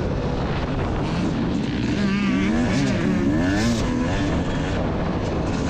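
Motocross dirt bike engines revving over a steady engine drone, the pitch rising and falling several times between about two and four seconds in as bikes work the throttle and shift.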